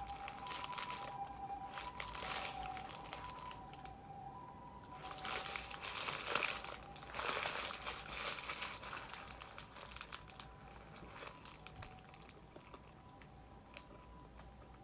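Crinkling and rustling of paper and plastic takeaway food packaging being handled in bursts, loudest in the middle, then only a few small clicks and rustles near the end.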